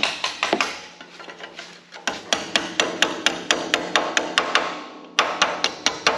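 Hammer tapping the edge of a sheet-metal repair panel down over a sharp edge: rapid light metallic taps, about five a second, with a short lull about a second in and a brief break near the end.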